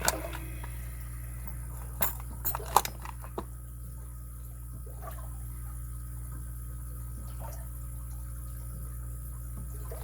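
Padlock being picked: a few sharp clicks from the pick and tension wrench working the pins, clustered about two to three seconds in, over a steady low background hum.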